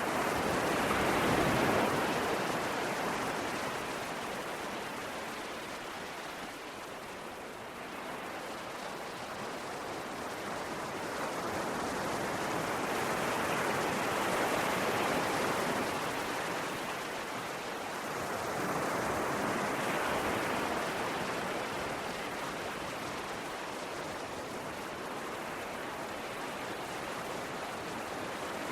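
Ocean waves washing ashore: a continuous rush of surf that swells and eases slowly, with a few louder surges.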